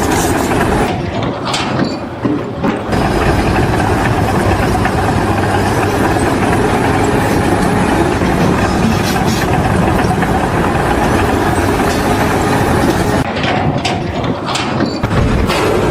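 A heavy engine running steadily, with brief dips in level about two seconds in and again near the end.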